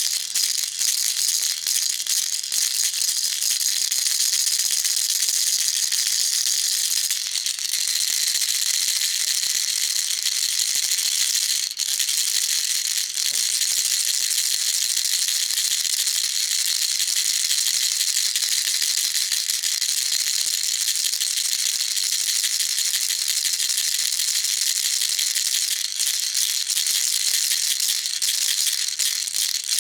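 Baby rattle shaken continuously, its beads making a dense high-pitched rattling hiss, with a few brief dips.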